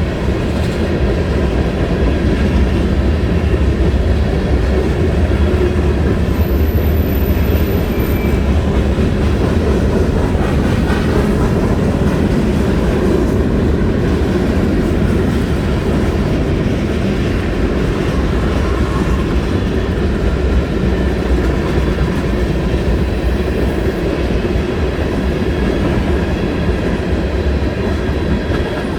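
Freight cars of a long mixed freight train rolling past at track side, a steady loud rumble of steel wheels on the rails.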